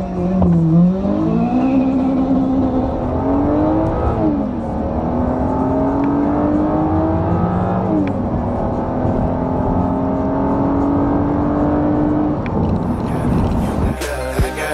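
BMW 3 Series engine heard from inside the cabin, accelerating hard down a drag strip: the pitch climbs steadily through the gears, with two upshifts about 4 and 8 seconds in. Near the end the engine levels off and fades as the driver lifts off.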